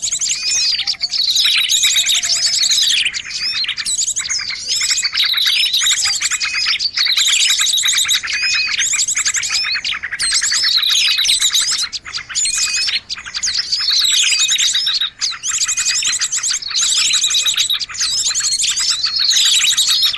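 Bird-lure recording of small songbirds chirping and trilling non-stop in a dense, noisy chatter. Fast high trills and falling chirps come back every five or six seconds, as in a looped recording.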